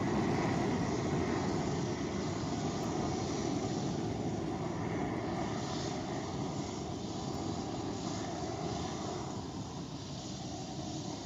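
Rumble of the Astra rocket's first-stage engines during ascent: a steady, deep noise that slowly fades as the rocket climbs away.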